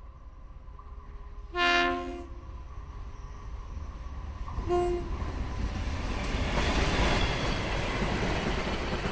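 Diesel locomotive horn sounding one loud multi-tone blast, then a short toot about three seconds later, after which the rumble of the approaching train builds up and stays loud.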